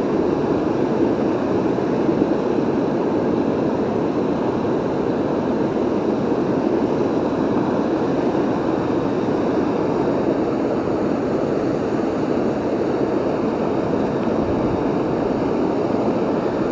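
Steady rushing of water pouring over a waterfall, an even, unbroken noise.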